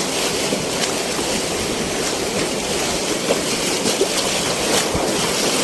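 Rushing white water of a strong river rapid, a steady churning noise around the kayak.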